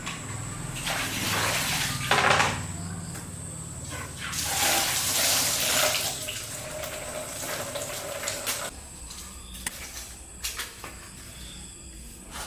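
Water pouring and splashing in two bursts, the first about a second in and the second around four and a half seconds in, followed by a few small knocks.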